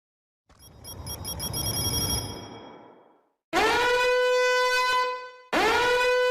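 Meme sound effects: a rush of noise that swells and fades over about three seconds with a high ringing chime on top, then two long, steady horn-like blasts of about two seconds each.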